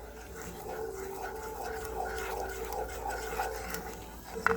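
Spoon stirring and scraping a saucepan of melted butter and granular sugar that has not dissolved, with a short knock near the end.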